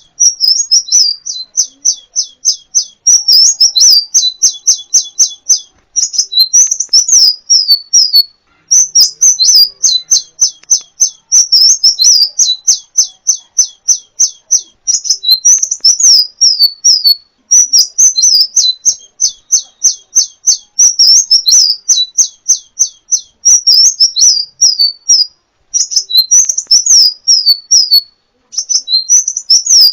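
A kolibri ninja sunbird singing: fast runs of high, sharp, downward-sweeping chirps, about eight notes a second, broken by a few short pauses.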